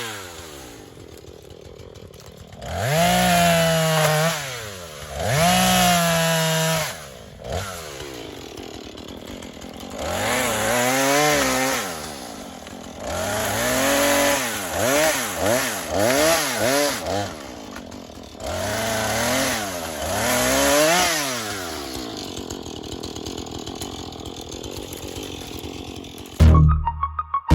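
Husqvarna two-stroke chainsaw idling and being revved up again and again, its pitch climbing and dropping back to idle about five or six times. Music cuts in suddenly near the end.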